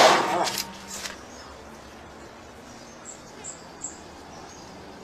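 A loud noise at the start fades out within about a second, then over a faint background hiss a small bird gives three short, high chirps about three seconds in.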